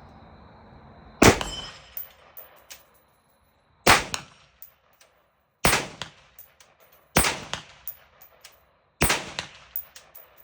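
AR-15 rifle fired semi-automatically in single shots: five shots spaced about one and a half to two and a half seconds apart, the first about a second in, each with a ringing echo, and small clinks between shots.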